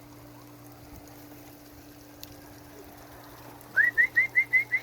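A quick run of short, rising whistled notes, about five a second, starting near the end over a faint steady hum.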